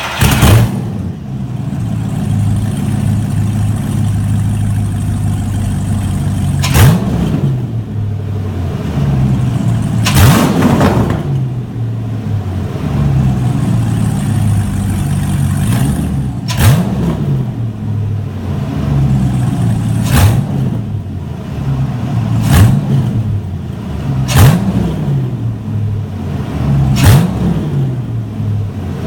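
Superlite SL-C's engine, just started, idling loud and raw through catalytic converters with no mufflers. About eight times, every few seconds, the throttle is blipped and the revs shoot up and fall straight back to idle.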